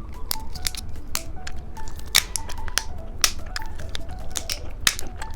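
Light background music with short plucked-sounding notes, over a steady run of sharp clicks and crackles from plastic candy packaging being handled.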